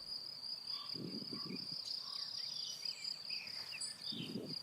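Crickets singing, a steady high trill, with a few faint short bird chirps over it.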